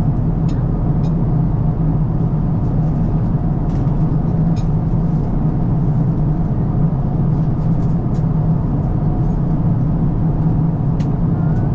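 Steady low drone of an Airbus A350-1000's cabin in flight, engine and airflow noise, with a few faint clicks scattered through it.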